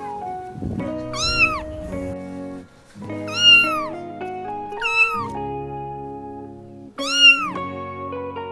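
A domestic cat meowing four times, each call rising then falling in pitch, over background music.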